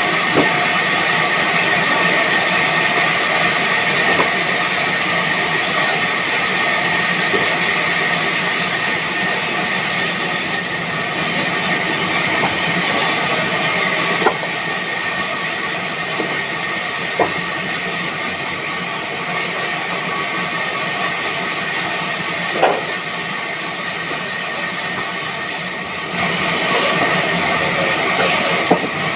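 Band sawmill machinery running steadily, a constant hum and hiss with a few sharp knocks, getting louder near the end.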